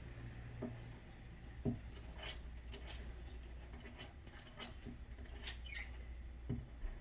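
Live feeder mouse scrabbling in a snake enclosure: scattered short, high-pitched sounds and a few soft knocks, the loudest knock a little under two seconds in.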